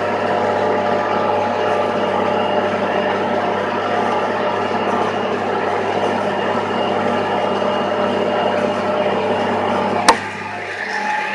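Landini Landpower 145 tractor's engine running steadily. About ten seconds in there is a sharp click, after which the low engine note drops away.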